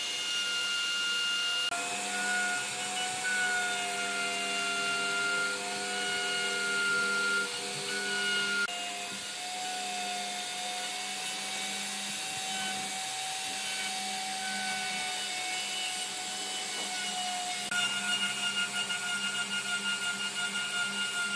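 Electric power tool motor running with a steady whine, broken by sudden jumps in tone. In the last few seconds the loudness pulses about three times a second.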